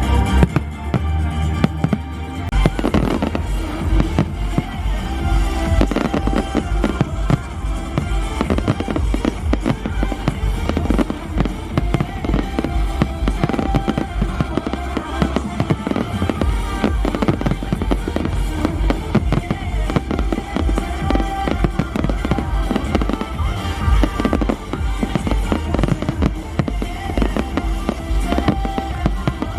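Fireworks display: many firework bangs in quick succession, with music playing throughout.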